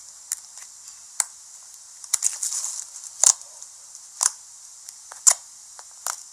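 Slime being pressed and stretched by hand, giving sharp air-bubble pops and crackles about once a second, with a short cluster of small crackles about two seconds in.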